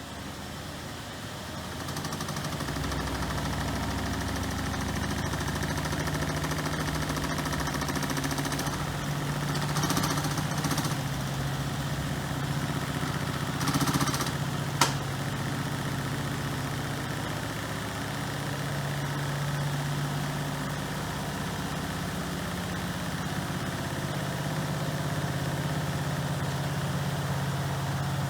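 Miele Professional PW6065 Plus washing machine running, its drum motor humming steadily and getting louder about two seconds in. A single sharp click comes about halfway through.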